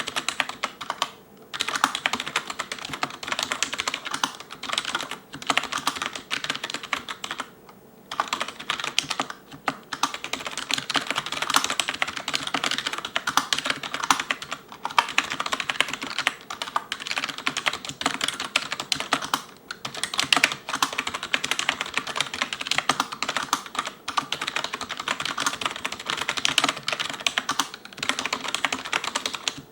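Fast continuous touch typing on an ELECOM TK-FDM088TBK wireless membrane keyboard with cylindrical keycaps, the keys clacking in dense runs that include the space and enter keys, broken by a few short pauses.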